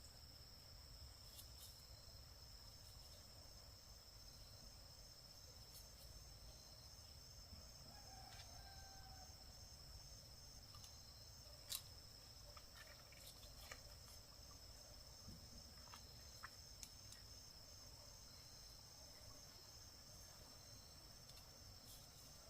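Faint, steady high-pitched insect trilling, with a pulsing edge, that runs on unbroken. A few scattered faint clicks sound over it, the sharpest about halfway through.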